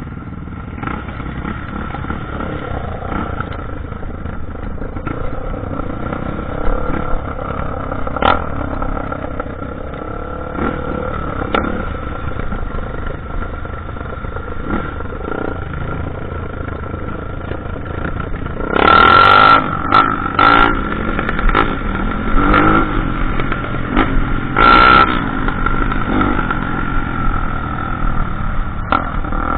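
Off-road dirt bike engine running steadily on a trail ride, with a few short, much louder surges about two-thirds of the way through.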